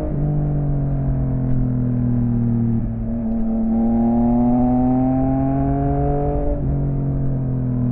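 Yamaha XSR900's inline-three engine through an M4 aftermarket exhaust, pulling under acceleration. The pitch climbs steadily in each gear, then drops sharply at upshifts: once right at the start, again about 3 seconds in, and again near the end.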